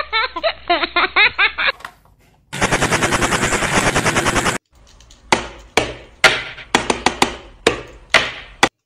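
Dubbed-in cartoon sound effects: a short warbling, chirpy effect, then about two seconds of rapid machine-gun fire, then a string of about a dozen sharp single gunshots.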